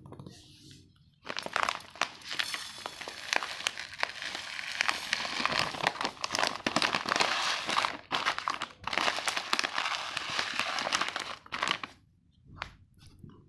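Plastic packet of basmati rice crinkling and rustling as it is handled, with many small crackles. It starts about a second in and stops near the end.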